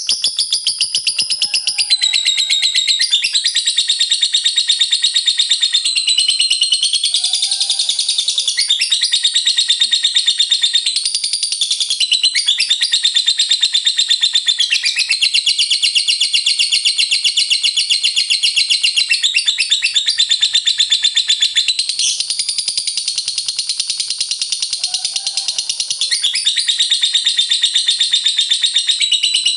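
Lovebird singing its long 'ngekek' song: an unbroken run of rapid, high-pitched chattering notes, shifting to a new pattern every few seconds.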